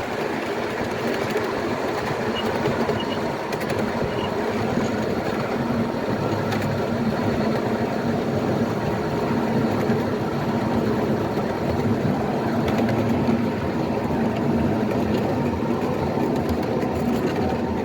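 Miniature ride-on railway train running along its track: a steady rumble of wheels on rail with scattered clicks.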